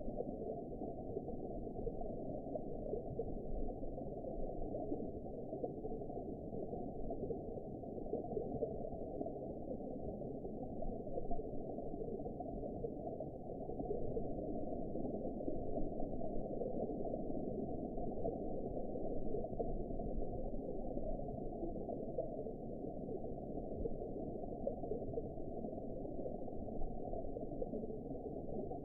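Steady, muffled underwater ambience: a continuous low rush of water noise with everything above a low pitch cut away, even in level throughout.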